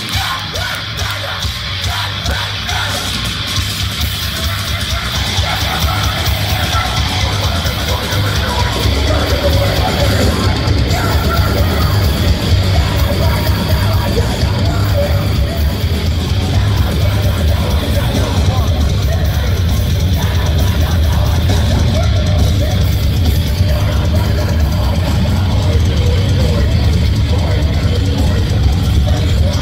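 Heavy metal band playing a song live at full volume, the sound building over the first several seconds and then holding steady and loud with a heavy low end.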